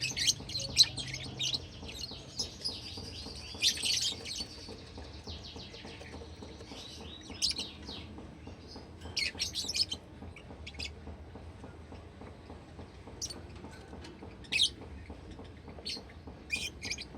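Pet lovebird chirping in short, high calls: a busy run of chirps in the first few seconds, then scattered single chirps and brief clusters.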